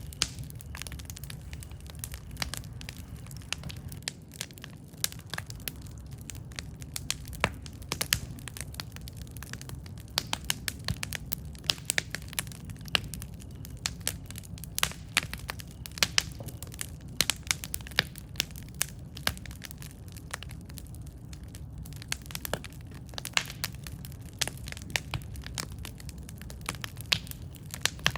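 Campfire crackling: frequent irregular sharp pops and snaps of burning wood over a steady low rumble of the flames.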